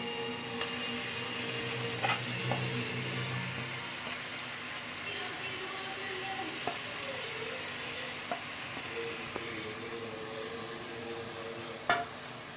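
Cleaned goat intestine pieces sizzling steadily in hot oil and masala in a pressure cooker as they are added, with a couple of sharp clicks about two seconds in and near the end.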